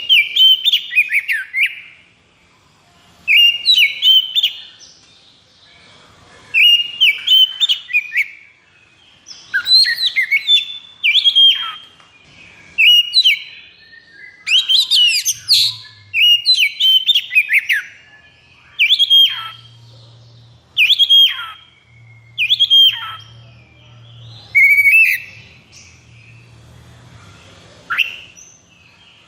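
Oriental magpie-robin (kacer) singing loudly in short, separate phrases of whistled notes, sharp downward-sweeping calls and harsh chattering, a new burst every second or two. This is the fiery 'konslet' style of kacer song.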